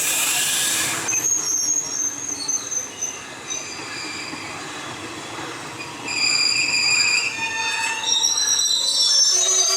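Wheels of a passenger express train squealing on the rails, several high squeals overlapping and growing louder about six seconds in. A loud hiss fills the first second.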